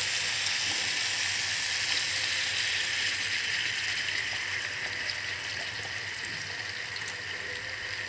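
Raw chicken pieces sizzling in a hot kadai as cooking oil is poured over them: a steady hiss that eases off slightly in the second half.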